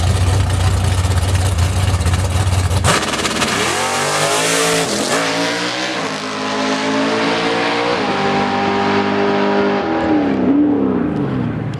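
A drag-race car launching off the line. A steady low rumble while it is staged is broken by a sharp crack at the launch, then the engine revs hard through several upshifts, its pitch rising and dropping back each time, and it fades as the car runs away down the strip.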